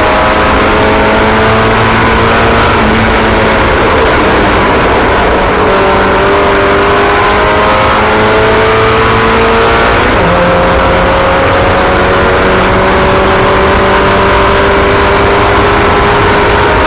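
Several race car engines running together at high revs, their pitches climbing slowly as the cars accelerate, with one falling back and climbing again about ten seconds in.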